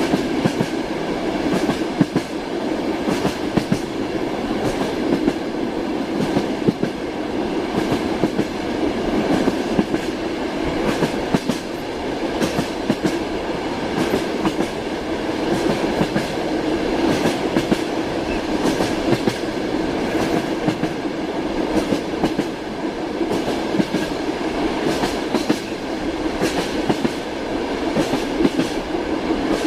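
Train wheels clattering over rail joints: a steady running rumble with frequent sharp knocks of the wheels.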